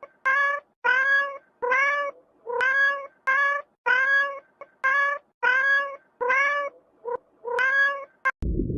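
A cat meowing over and over, about a dozen short, high calls in steady succession with a slight rise and fall in pitch. Near the end the calls stop and a low rumbling noise takes over.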